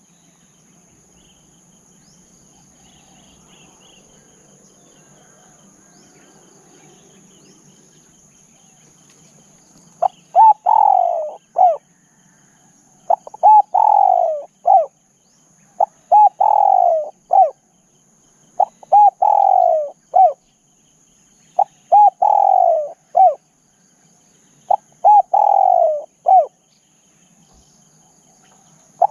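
Spotted dove cooing: a phrase of several low, falling coo notes, repeated six times about every three seconds, starting about ten seconds in. Before the first phrase, only a faint steady high-pitched insect drone.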